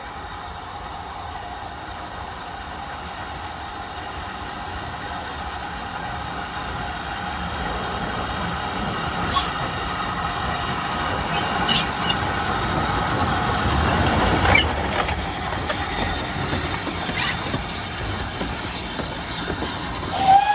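Train hauled by GWR steam locomotive 5619 approaching, growing steadily louder until about fourteen seconds in, with a few sharp clicks along the way. A steam whistle starts to sound at the very end.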